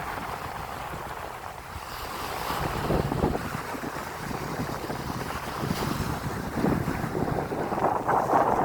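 Sea surf washing in, with wind buffeting the microphone in low gusts and the noise of the waves swelling near the end.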